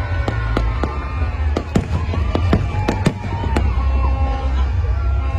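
Fireworks display in full swing: a rapid, irregular string of sharp bangs and cracks from bursting shells over a continuous deep rumble of booms.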